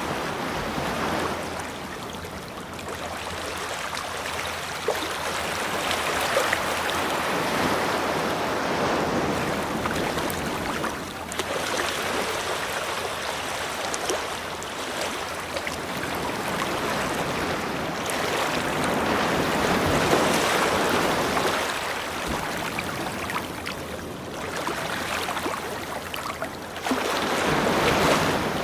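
Ocean waves washing onto a beach, a steady hiss of surf that swells and eases every few seconds.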